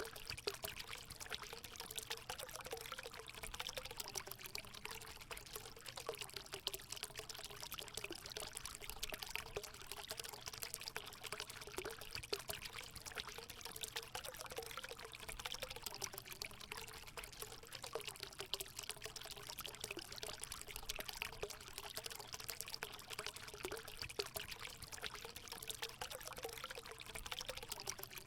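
Water running and pouring into a hot spring pool, a steady splashing trickle without a break.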